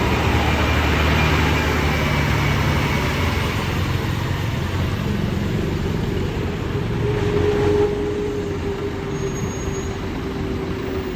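Scania coach's diesel engine running with a steady low drone as the bus pulls away from the terminal. A steady mid-pitched tone joins about seven seconds in.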